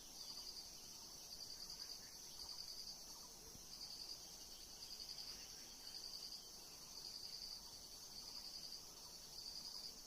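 Insects chirring, likely crickets: a faint, steady high drone with a short pulsing trill that repeats about once a second.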